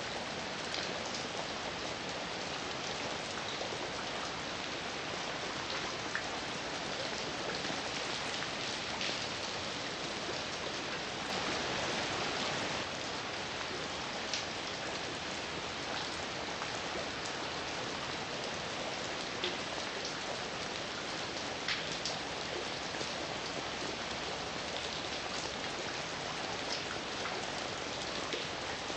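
Steady heavy rain falling, a constant hiss with scattered sharper drop hits on a surface, swelling slightly louder for a couple of seconds a little before the middle.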